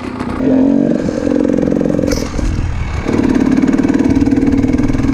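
300cc two-stroke enduro dirt bike engine pulling under throttle. It picks up about half a second in, eases off briefly around the middle, then pulls hard again.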